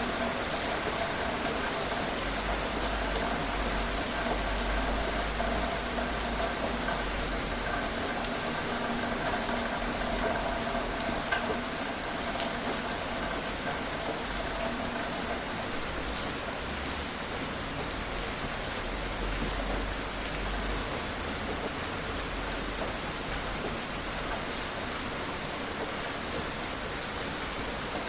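Steady gentle rain falling, an even hiss with scattered single drops ticking. A faint steady hum runs under it and fades out about halfway.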